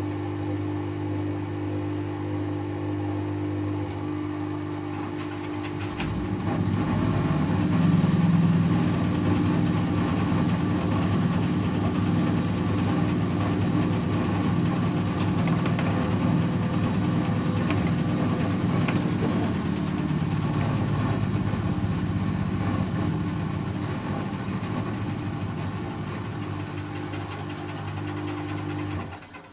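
Servis Automatic M3008B washing machine on its 500 rpm intermediate spin: the motor hums steadily, then about six seconds in it grows louder and rougher as the drum spins. It eases off and cuts out just before the end.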